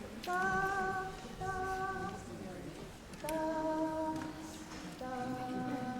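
Community choir singing unaccompanied in high voices, four long held notes with short breaks between them.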